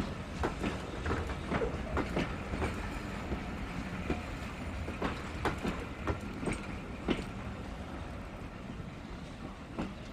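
Railway carriages rolling past: a steady low rumble with sharp clicks as the wheels cross the rail joints, the clicks coming thickly at first and thinning out in the second half.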